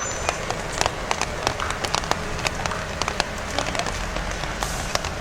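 Rain falling on a city street, with many close, irregular taps of drops hitting nearby surfaces over a steady background hum.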